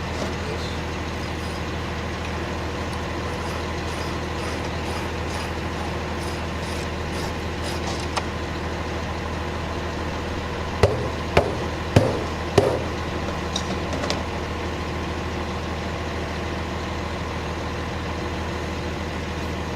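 Truck engine idling steadily, with four sharp metal clanks in quick succession about 11 to 12.5 seconds in, and a few lighter ticks earlier.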